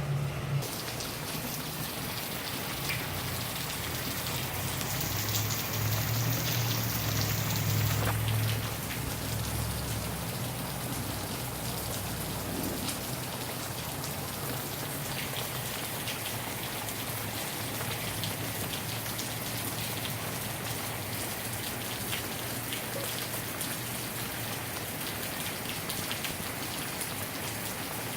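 Heavy rain falling steadily, an even hiss dotted with many small sharp ticks of drops striking. In the first several seconds a low rumble swells and fades under it.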